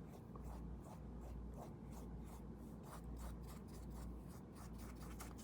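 Paintbrush brushing colour onto the painting surface in quick, repeated faint strokes, about three a second.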